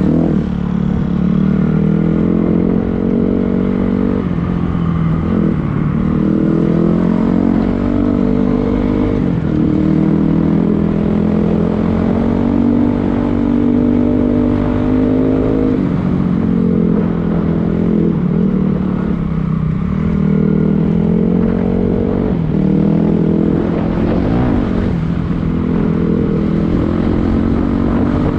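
Dirt bike engine running under way, its pitch climbing and dropping repeatedly as the throttle is opened and rolled off, with short dips every few seconds.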